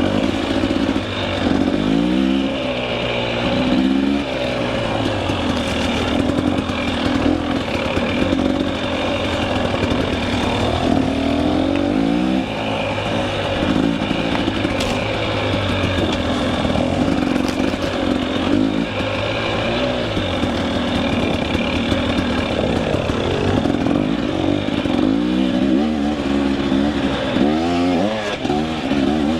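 KTM 300 EXC two-stroke dirt bike engine being ridden, its revs rising and falling again and again.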